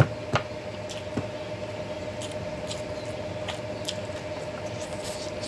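Eating sounds of rice and curry eaten by hand: wet chewing and lip-smacking clicks, sharpest in the first second or so and then lighter ticks scattered throughout. A steady faint tone hums underneath.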